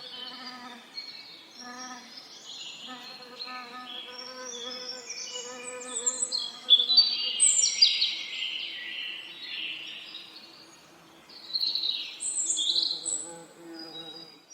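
Songbirds singing, with overlapping quick high phrases and chirps that are loudest about halfway through and again near the end. Underneath, bees buzz in a low hum that swells and fades.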